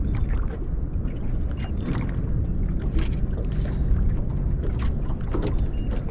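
Steady low rumble of wind buffeting the microphone and water around a small boat, with scattered light clicks and ticks throughout.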